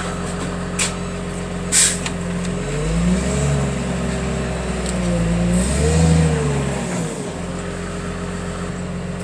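Heavy machine's engine running steadily, then revving up for about four seconds, with a rising and falling whine as it works under load, and settling back to idle. A short hiss comes about two seconds in.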